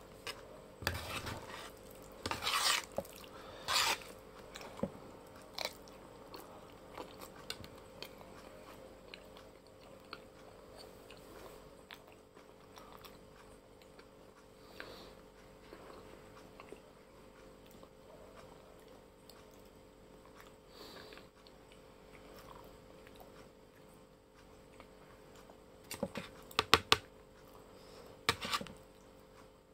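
Close-miked chewing of Shan noodles, with a few louder bursts in the first seconds. Near the end a metal spoon clinks and scrapes against the plate several times as more noodles are scooped up.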